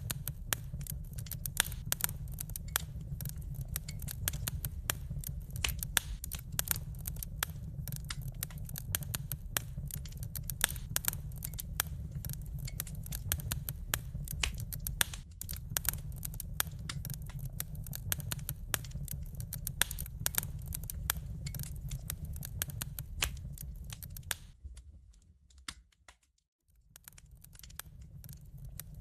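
Wood fire crackling: a dense stream of sharp pops and snaps over a steady low rumble of burning. Near the end it fades almost to silence for about two seconds, then comes back.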